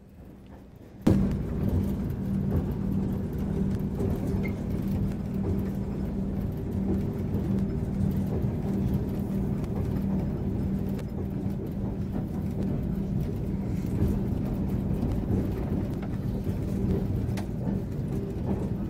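Steady rumble and low hum of a running vehicle, starting abruptly about a second in after a brief quieter moment.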